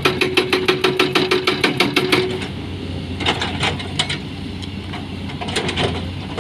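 Heavy earthmoving machinery working: a steady low engine hum, with rapid even knocking about seven times a second for the first two seconds, then only occasional clanks.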